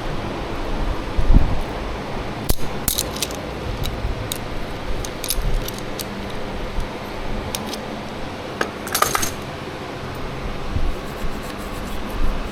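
Small metal parts and tools clinking and clicking as they are handled during brake caliper and pad work, with a low thump about a second in and a quick run of clinks near the end.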